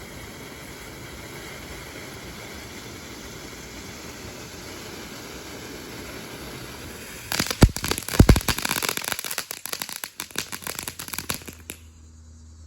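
Consumer ground firework (the 'Carousel') hissing steadily. About seven seconds in it breaks into rapid crackling with two loud bangs, and the crackling cuts off about four seconds later.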